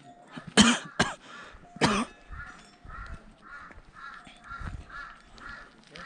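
A bird calling: three loud, harsh calls in the first two seconds, then a steady run of quicker, fainter calls, about two to three a second.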